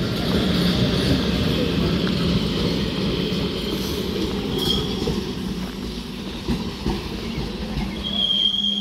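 Electric multiple unit local train running past on the rails, a steady rumble of its coaches and wheels on the track that eases as the train moves away. A thin, steady high whine comes in near the end.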